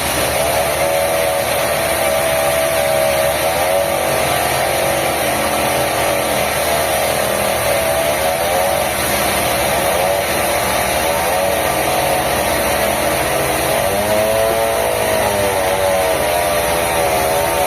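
Sawmill machinery running steadily and loudly, with a saw's whine that wavers up and down in pitch as it works, growing stronger near the end.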